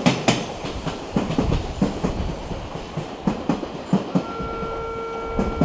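An electric commuter train running through the station, its wheels clicking over rail joints, the clicks spacing out as it goes. About four seconds in, a steady tone starts over it.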